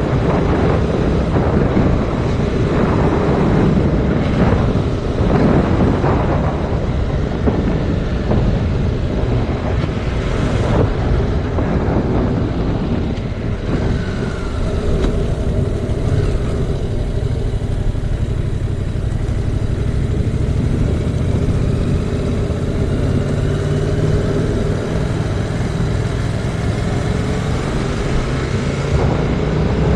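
Wind buffeting a GoPro microphone on a moving motorcycle, over the 2019 Yamaha MT-07's parallel-twin engine running at road speed. The engine note rises in places, most clearly near the end.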